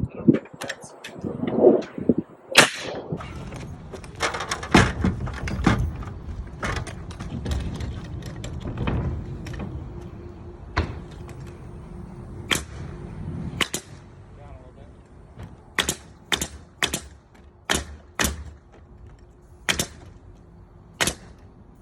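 Nail gun firing ring-shank nails through roof sheeting into the shed trusses: sharp single shots, scattered at first, then a quick run of about two a second near the end.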